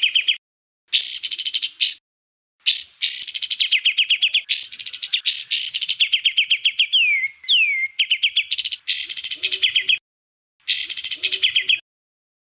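Songbird singing 'tembakan' phrases: loud bursts of rapid, sharp, evenly spaced notes, like a fast chattering trill. The bursts repeat with abrupt stops and dead silence between them, and the longest runs about seven seconds. Two clear downward-sliding whistles come in the middle.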